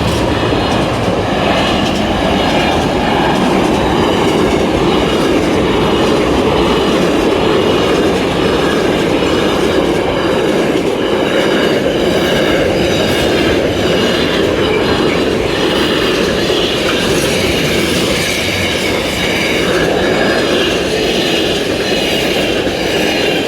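Freight train's wagons rolling past at speed over a level crossing: a loud, steady rumble with a regular clickety-clack of wheels over the rail joints.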